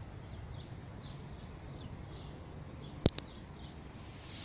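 Small birds chirping, short high notes several times a second, with a sharp double click about three seconds in.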